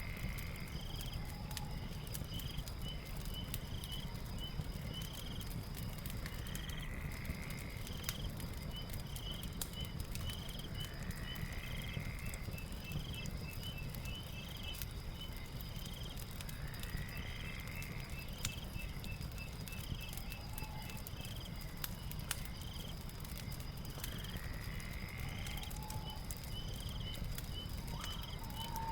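Fireplace crackling over a night-time nature ambience. The ambience has a steady high chirping and, about every six seconds, a rising call.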